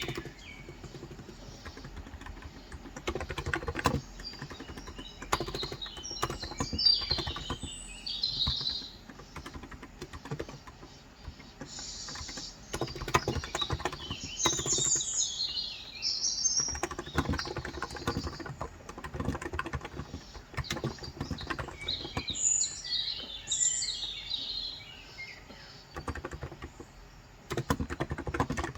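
Typing in bursts on a Cox Endeavour 35 g electrostatic capacitive (non-contact) tenkeyless keyboard: runs of soft keystrokes with short pauses between them. Birds chirp in three spells in the background.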